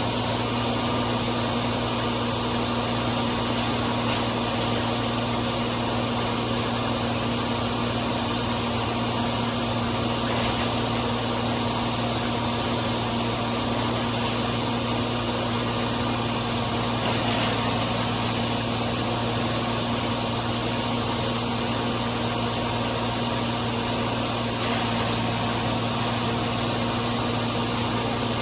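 John Deere 4230's six-cylinder diesel running at a steady speed, driving a New Holland 355 grinder-mixer grinding corn: an even, unchanging mechanical drone with a low hum.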